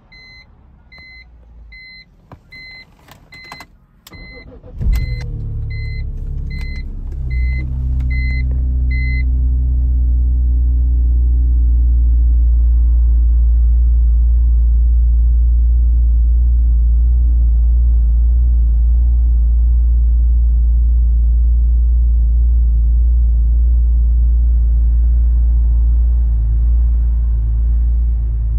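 Cold start of a 2001 BMW E46 M3's S54 straight-six. The car's warning chime beeps steadily and there are a few clicks, then the engine catches about five seconds in and flares. It settles over the next few seconds into a steady fast cold idle.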